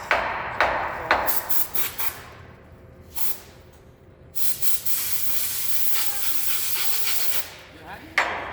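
A few sharp knocks in the first second, then, about four seconds in, a steady spraying hiss that lasts about three seconds and stops.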